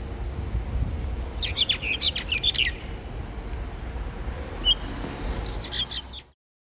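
Birds chirping outdoors: a quick burst of high chirps, then a few more scattered calls, over a steady low rumble. The sound cuts off suddenly near the end.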